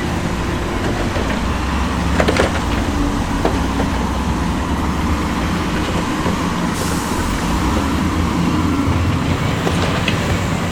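Heavy diesel construction machinery running steadily at work, with a cluster of sharp knocks about two seconds in.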